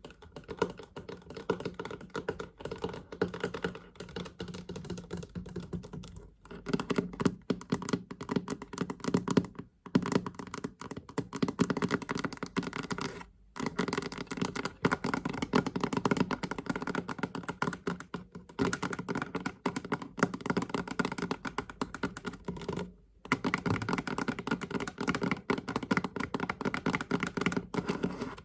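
Fast tapping on a chest: dense runs of quick taps, broken by short pauses a few times.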